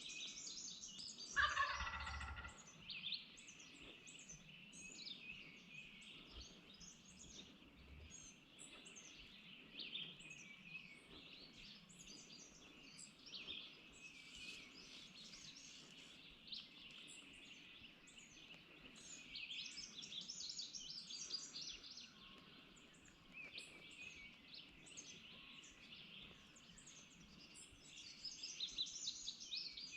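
A wild turkey gobbles once, a short rattling call about a second in, over a continuous chorus of songbirds chirping and singing.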